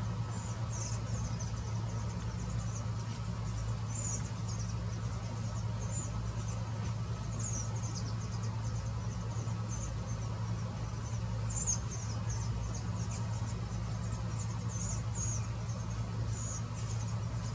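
Steady low hum, with short high-pitched chirps scattered irregularly through it, a few every couple of seconds, some sliding downward.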